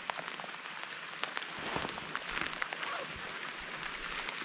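Rain pattering on the helmet and helmet-mounted camera: a steady hiss with many small, sharp ticks of drops striking.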